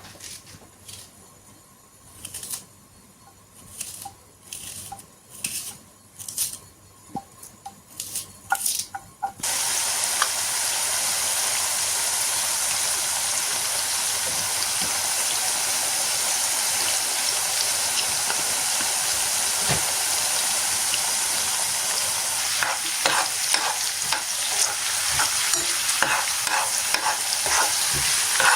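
A few scattered scrapes and taps, then about a third of the way in a loud, steady sizzle starts abruptly as food goes into a hot pan of fat and keeps frying, with crackling and spitting growing near the end.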